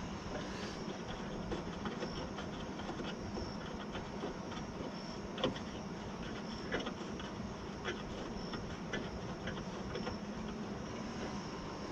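Light, irregular clicks and taps of hand tools and metal parts as bolts are worked off a car door's window regulator track. A steady hiss lies under them, with a faint, high, repeated chirp in the background.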